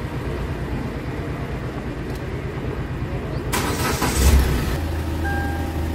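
Hyundai Verna 1.6L engine cranked with the key about three and a half seconds in, catching quickly and settling into a steady idle.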